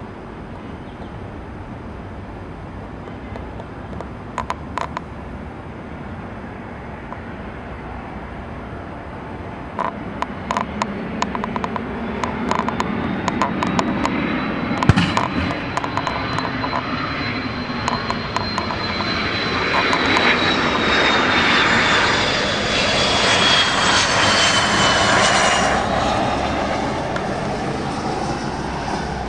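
Jet airliner going past, its engine noise swelling to a peak. A high whine in it falls slowly in pitch as the aircraft passes. A few sharp clicks come before the engine noise builds.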